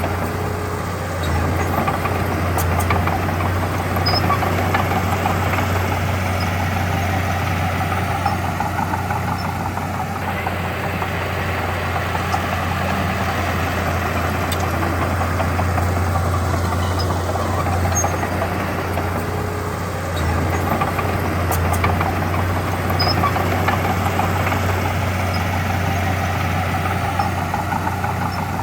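Heavy diesel earthmoving machinery running steadily, with its engine note swelling and easing a few times as the load changes.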